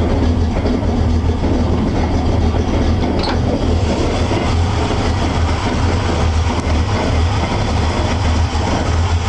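1971 Chevrolet pickup's 355 small-block V8 idling steadily while warming up after a cold start.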